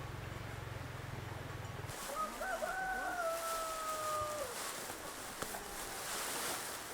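A rooster crowing once: a few short rising notes, then a long held note that drops off, about two to four and a half seconds in. A low steady hum stops abruptly just before it.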